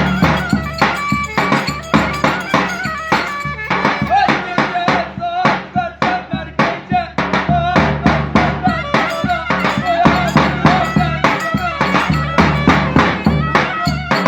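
Live Turkish folk dance music from a wedding band: a fast, steady percussion beat with a wavering melody line over it.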